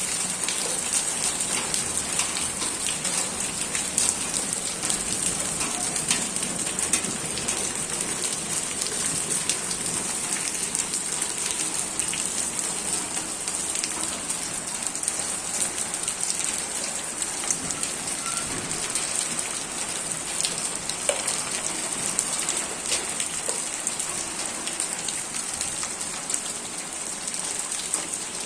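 Hail and heavy rain falling, a steady hiss of rain dotted with many sharp ticks of hailstones striking hard surfaces.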